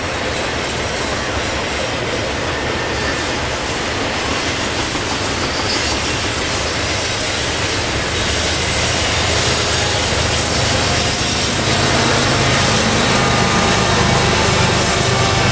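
Double-stack intermodal cars of a freight train rolling past with steady wheel-on-rail noise and some wheel squeal. From about halfway, a steady low diesel engine drone from the rear distributed-power locomotive, a GE ES44DC, takes over as the end of the train passes.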